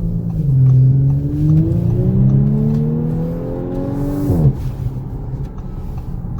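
2019 Audi S5 Sportback's turbocharged V6 accelerating hard, heard from inside the cabin: the engine note climbs, drops back at a quick upshift near the start and again about a second and a half in, and climbs again. About four seconds in the revs fall sharply as the throttle is lifted, leaving a steady lower engine and road noise.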